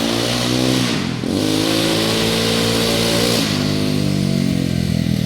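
1999 Kawasaki Bayou 300's single-cylinder four-stroke engine running straight-piped with no exhaust or muffler, loud. It is revved up, dips briefly about a second in, revs up again and holds, then drops back to a lower speed near the end.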